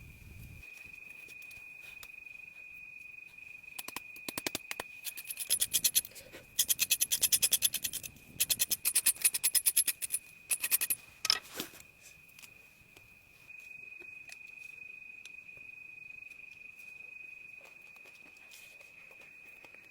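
Several bursts of fast, rasping strokes, loudest in the middle of the stretch, over a steady high-pitched insect trill.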